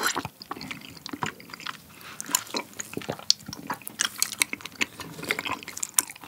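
Close-miked wet chewing of soft, chewy rosé tteokbokki rice cakes in thick sauce, with many small sticky, smacking clicks.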